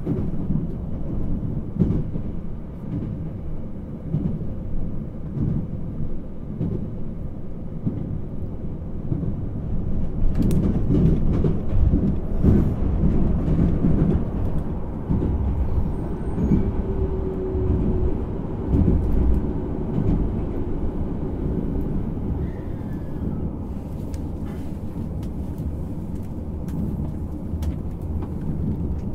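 Running noise inside the passenger cabin of a JR Hokkaido 789 series 1000 electric multiple unit: a steady low rumble of wheels on rail, louder for a few seconds about a third of the way in, with scattered clicks and knocks from the track.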